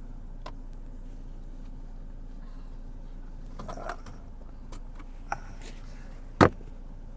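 Car engine idling steadily inside the car while someone gets out, with a few small clicks and handling noises, then one sharp loud thump about six and a half seconds in, a car door shutting.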